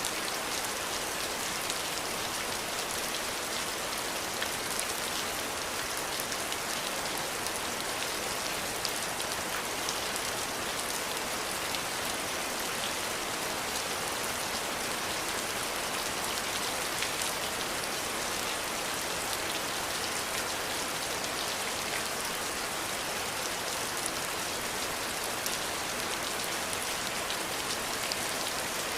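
Steady rain falling, an even hiss with scattered small ticks of drops striking a surface.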